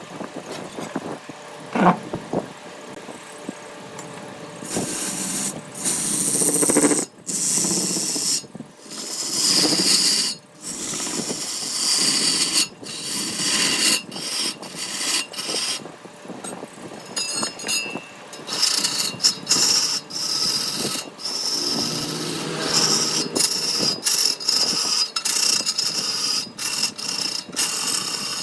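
Woodworking power tools working on wood, with a hissing noise that is cut off and restarted every second or so. From about two-thirds of the way in, a faint high whine runs through it.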